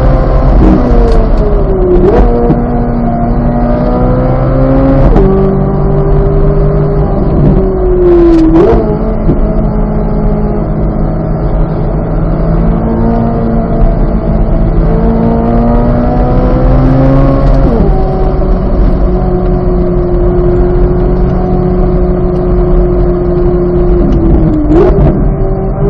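2023 Chevrolet Corvette Z06's flat-plane-crank 5.5-litre V8 running hard on track, its revs climbing and falling with sharp pitch jumps at the gear changes, about five times.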